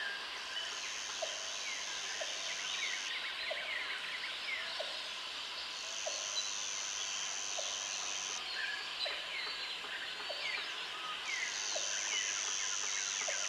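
Jungle ambience: a dense chorus of birds chirping and whistling, with an insect buzzing high and steady in stretches of about two and a half seconds, three times, and a short low call repeating about once a second.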